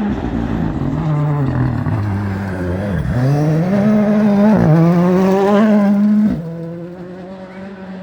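Rally car engine under hard acceleration, its pitch dipping and then climbing with a quick gear change about four and a half seconds in. The engine note drops away sharply just after six seconds, as the car moves off or lifts off the throttle.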